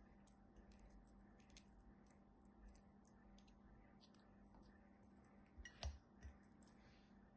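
Faint, sticky clicks and small crackles from slime being worked by hand, with a louder knock about six seconds in.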